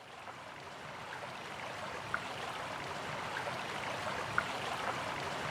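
Running water of a stream, a steady rushing that fades in and then holds, with a few brief high plinks over it.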